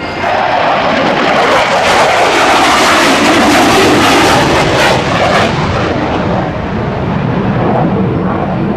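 Jet roar of a QF-4E Phantom's twin J79 turbojets on a low pass, loudest for the first five seconds or so with a pitch sweep as it goes by, then easing off.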